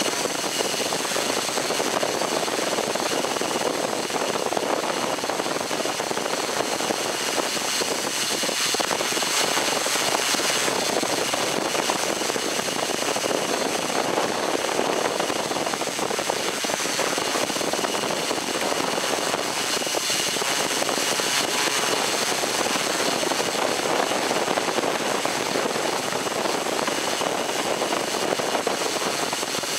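Multirotor drone motors and propellers running steadily: a constant hum with a high, even whine, with no change in speed.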